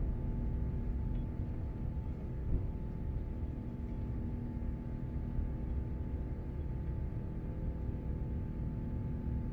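Steady cabin noise inside an Airbus A350-900: a low rumble with a steady engine hum from its Rolls-Royce Trent XWB engines.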